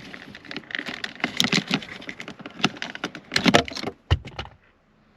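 Rapid plastic clicks, cracks and rattles as the blower switch and its wiring plug are worked loose behind a car dashboard, with a dull thud about four seconds in.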